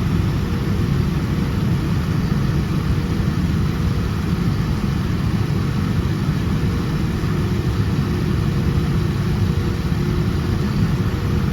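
Steady low rumble of a Boeing 787-10's engines and airframe heard inside the cabin, with a thin steady hum above it and no change in pitch or level.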